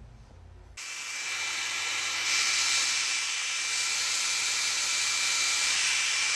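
A steady hiss, strongest in the high range, starting suddenly about a second in, with a faint thin steady whine running through it.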